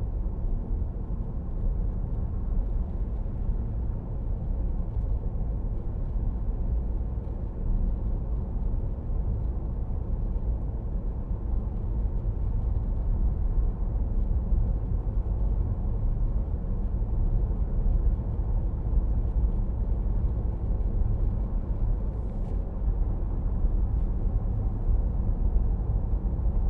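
Steady low road and tyre rumble inside a car's cabin cruising at about 50 mph, picked up by a phone's external microphone.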